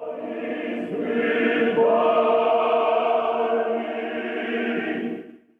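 Choir singing slow, held chords, with the harmony shifting about two seconds in, then fading out near the end.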